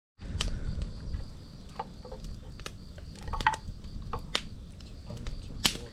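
Wood campfire crackling, with sharp irregular pops over a low rumble, and a faint steady chirring of crickets behind it.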